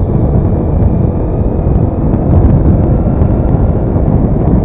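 Steady wind rush on the microphone over the running engine of a Daelim S3 scooter being ridden along the road.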